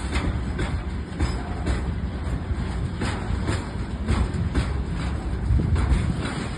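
Train passing close by, its wheels clacking over rail joints in quick repeated pairs over a steady low rumble.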